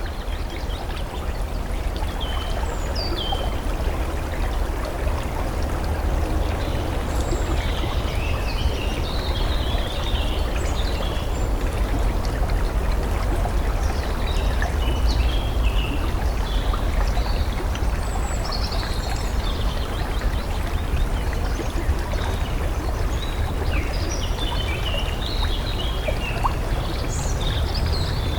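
Steady flowing water of a stream, with small birds chirping on and off over it.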